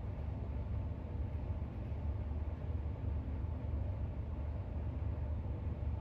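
Steady low rumbling background noise at an even level, with no distinct clicks or page turns.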